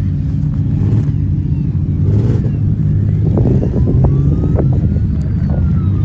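Heavy truck and tractor engines running and revving, with several sharp knocks and clanks about three to five seconds in and faint rising and falling whines.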